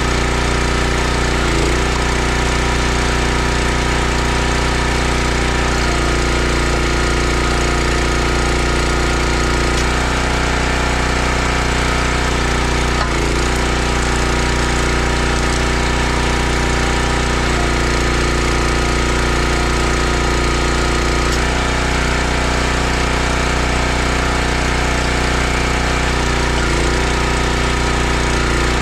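Gas log splitter's small engine running steadily with a rattly note that shifts slightly every few seconds.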